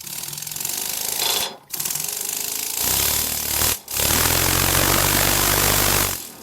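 Double-acting oscillating (wobbler) model steam engine running fast, a rapid hammering chatter of exhaust puffs and rattling as the engine jumps about on its base. The sound breaks off briefly twice, then runs steadily before stopping near the end.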